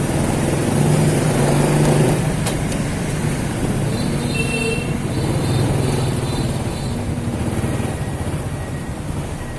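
Motorcycle ride through city traffic: the engine runs and its pitch rises and falls with speed, over a steady rush of road and wind noise. A brief high-pitched tone sounds near the middle.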